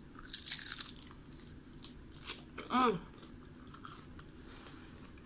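Crispy fried chicken-skin chicharon bitten and chewed close to the microphone: a loud crunch about half a second in, then smaller chewing crunches. A short vocal sound from the eater comes about three seconds in.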